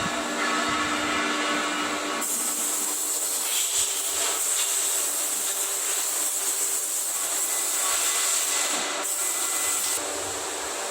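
Stretch bending machine running: a steady mechanical hum with held tones and a bright hiss, whose character changes abruptly about two seconds in and again near the end.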